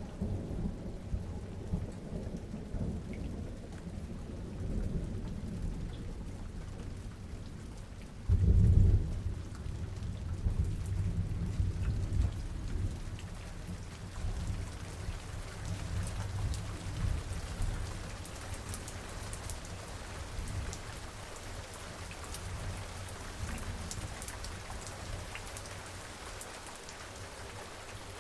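Steady rain falling, with thunder rumbling low throughout; a loud clap of thunder comes about eight seconds in and its rumble rolls on, fading, through the rest.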